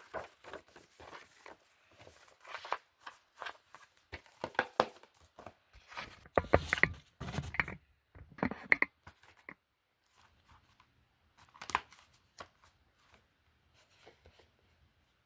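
Hand-handling noise of plastic DVD cases: a quick run of clicks, taps and crinkles, busiest for the first nine seconds or so, then a few scattered clicks.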